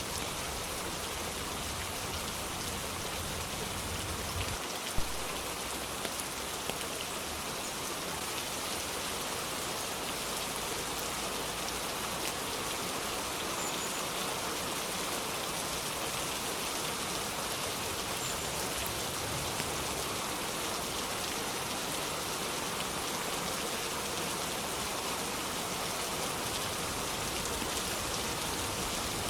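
Steady, dense rainfall hissing evenly, with a single sharp tap about five seconds in and a few fainter ones just after.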